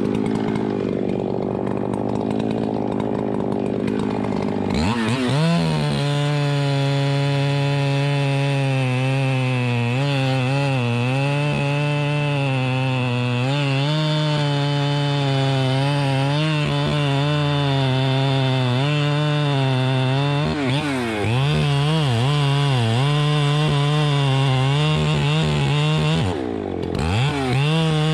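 Chainsaw running with a rough, wavering tone for the first few seconds, then rising to high revs about five seconds in. It holds there with its pitch dipping and recovering repeatedly, as when cutting wood, and drops briefly near the end before picking up again.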